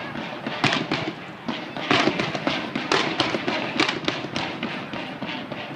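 Fireworks bursting in rapid, irregular succession: a dense run of sharp bangs and crackles, several a second.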